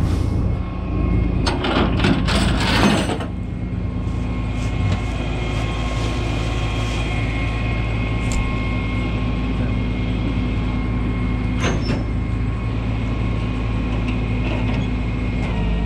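Tow truck engine running with a steady hum while the truck moves in over rough, rocky ground. A burst of crunching and rattling comes about two to three seconds in, and a single sharp click comes near twelve seconds.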